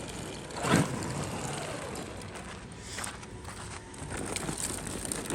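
Traxxas XRT RC monster truck's brushless electric motor whining as it is throttled, its pitch dipping and rising sharply once just under a second in, then a fainter falling whine.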